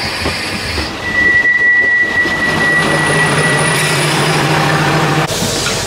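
Single-car diesel railcar coming to a stop at the platform. Its brakes give a steady high squeal for a few seconds while the engine idles with a low hum. A short burst of hissing follows near the end.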